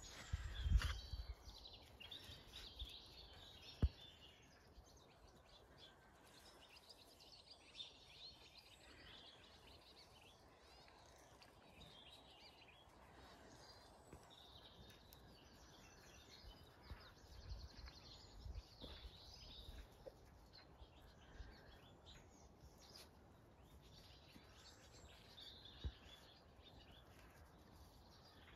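Faint birdsong, scattered chirps and calls, over quiet outdoor background noise. A few low knocks and short rumbles, the loudest about a second in.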